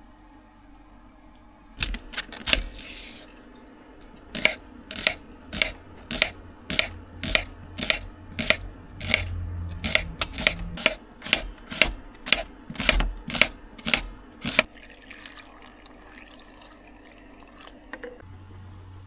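Knife chopping on a cutting board: a few strokes about two seconds in, then a steady run of about twenty chops, a little under two a second, that stops about fifteen seconds in.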